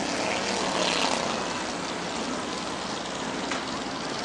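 Several race cars' engines running together as they drive around the track, a steady mixed drone with pitches rising and falling as the cars accelerate and back off.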